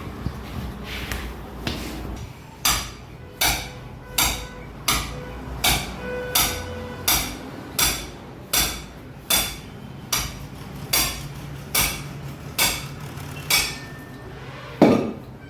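Hammer striking metal in a steady series of blows, a little more than one a second, each with a short metallic ring. The heaviest blow comes near the end.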